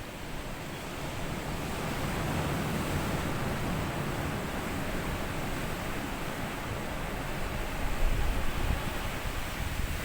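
Sea waves washing in over a sandy beach, one swelling wash building about two seconds in; from about eight seconds gusts of wind buffet the microphone with a low rumble.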